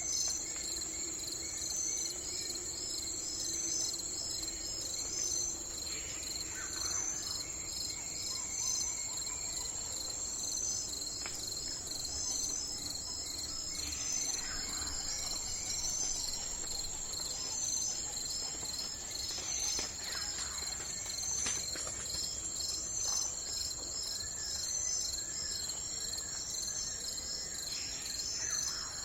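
A steady, high-pitched chorus of trilling insects, the pulsing kind typical of crickets, with a few short bird calls now and then.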